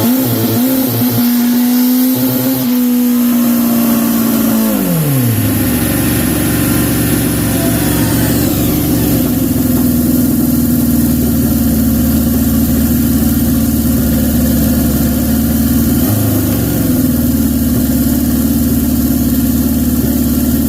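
Turbocharged Honda CB750 inline-four running hard on a dyno: engine pitch holds high for about four seconds, drops sharply around five seconds in, then runs steadily at lower revs. The clutch is slipping under load, which the owner takes to mean the clutch is roasted.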